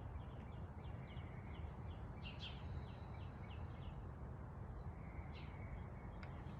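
Wild birds singing: a quick run of short chirps in the first two seconds, then scattered single calls, over a steady low background rumble.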